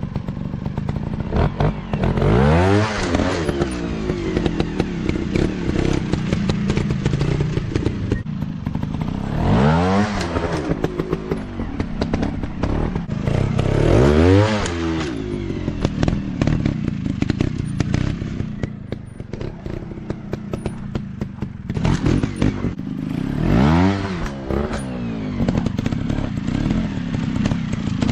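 Dirt bike engines running, revved up and let back down about four times, with clattering and crackling under the engine noise.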